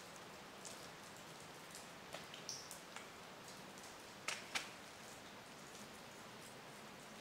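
Faint steady hiss with scattered light ticks and taps, two sharper taps in quick succession a little past halfway.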